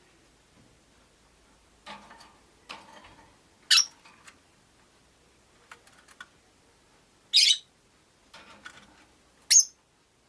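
Rosy-faced lovebirds calling: three loud, short, shrill calls spaced a few seconds apart, with quieter clicks and rustles in between.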